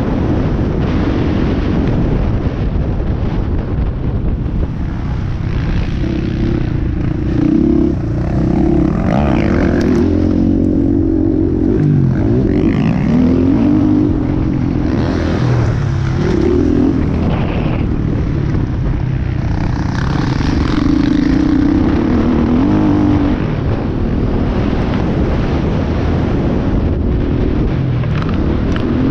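Dirt bike engine revving up and easing off again and again as it is ridden hard over the track, with wind noise on the microphone.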